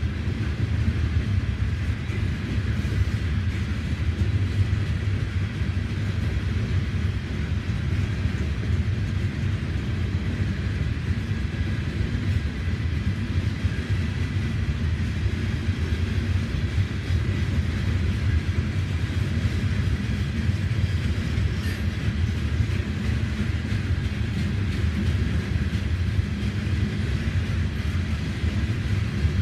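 Freight train's coal hopper cars rolling past at a steady speed: a continuous low rumble of steel wheels on rail.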